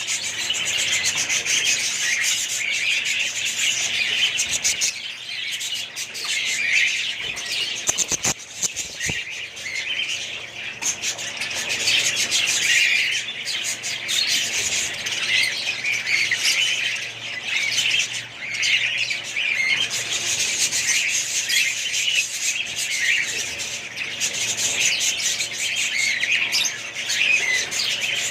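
A flock of small cage birds chirping continuously, many high calls overlapping in a dense chatter, with a few brief knocks about eight seconds in.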